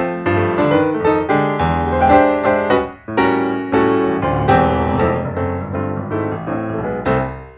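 Background piano music: a brisk run of notes with a short break about three seconds in, fading away at the end.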